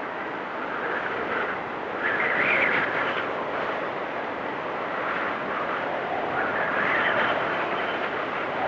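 Blizzard wind blowing in gusts: a steady rushing that swells louder about two seconds in and again near the end.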